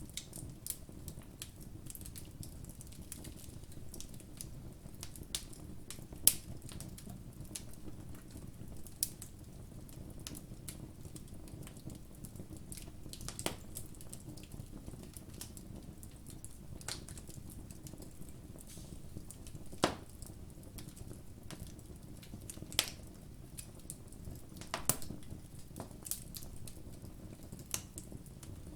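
Campfire burning: a steady low rumble of flames with irregular sharp crackles and pops, a few of them much louder.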